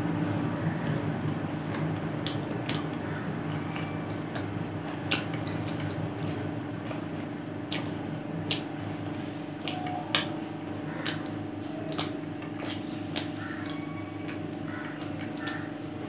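A person chewing food with the mouth closed: scattered wet clicks and smacks from the mouth at irregular intervals, over a steady low hum.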